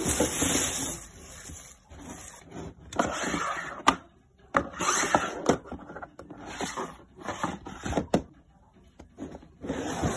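Packaging being handled during an unboxing: irregular bursts of rustling and crinkling, with sharp clicks and taps between them.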